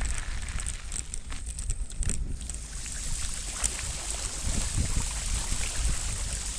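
Mountain bike riding on a wet trail: wind rumbling on the microphone over the hiss of tyres rolling on wet ground, with a few sharp rattles in the first two seconds.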